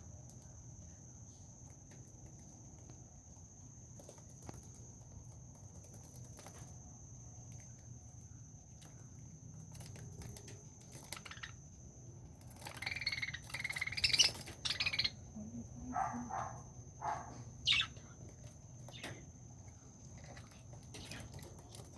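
Birds chirping and calling: faint scattered clicks at first, then a burst of louder chirps and calls about halfway through, with a few more near the end, over a faint steady high-pitched whine.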